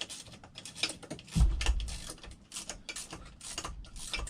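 Irregular clicks and clinks of metal tools and outboard parts being handled during assembly, with a low thump about a second and a half in.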